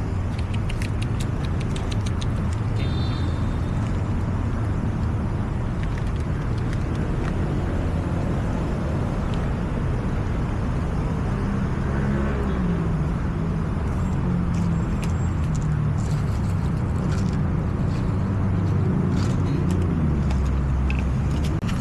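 Steady low rumble of motor-vehicle engines and road traffic, with the engine pitch drifting slightly and a few faint clicks.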